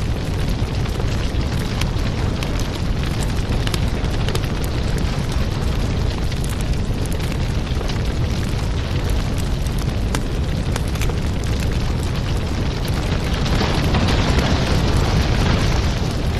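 Wood fire burning in a fireplace: a steady low rumble with frequent crackles and pops, and a louder hiss for a couple of seconds near the end.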